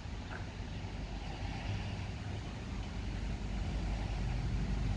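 A car's engine running at low speed, its rumble growing a little louder toward the end as the car moves.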